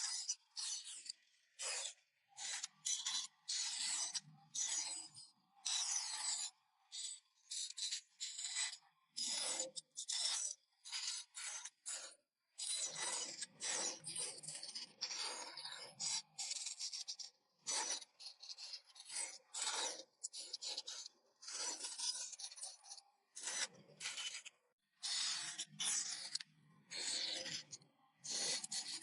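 A blade cutting and scraping into a wooden board by hand, in many short, irregular strokes with brief silent gaps between them.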